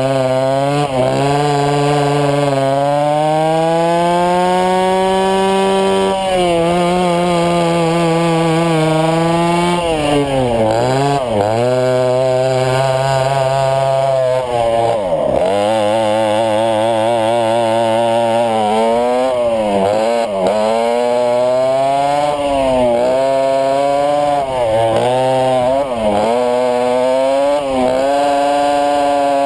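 Twin West Bend 820 single-cylinder two-stroke kart engines running hard on track, the pitch climbing slowly as the kart accelerates and dropping in short, sharp dips again and again as the throttle is lifted. Around the middle the note wavers, the two engines beating slightly out of step.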